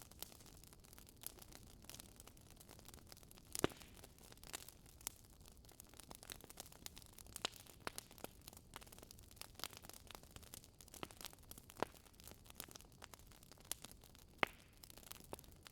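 Wood fire crackling, with irregular small pops and snaps over a low hiss and two sharper pops, one about three and a half seconds in and one near the end.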